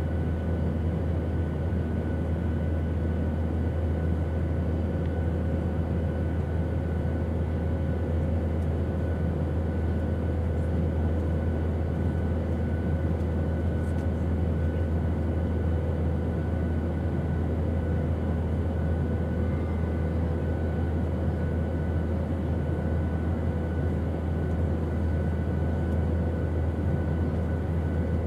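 Airplane engine noise: a steady, unchanging drone with a deep rumble and a few faint steady hums riding on it.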